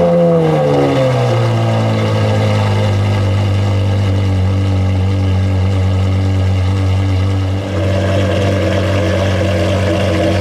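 Gemballa Mirage GT's V10 engine just after starting: the revs fall over the first second or so and settle into a steady idle. About three-quarters of the way in the sound briefly dips, then the idle comes back a little fuller.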